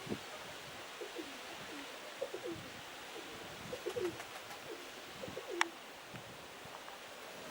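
Young Kirovograd pigeons cooing: short low coos repeated every half second to a second over a steady hiss, with one sharp click about five and a half seconds in.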